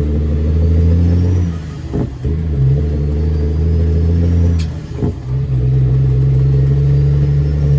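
Straight-piped Caterpillar C13 diesel of a Kenworth W900B dump truck pulling steadily, easing off briefly about two and five seconds in before pulling again, with a faint whistle rising in pitch as it pulls.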